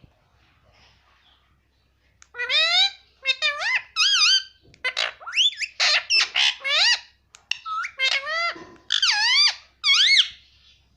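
Indian ringneck parrot calling in a rapid series of high, pitch-sliding calls, starting about two seconds in and stopping just before the end.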